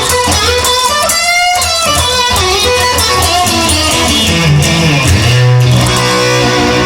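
Instrumental break of a song: electric guitar playing a lead line, with a wavering bent note about a second and a half in, over strummed guitar and a moving bass line.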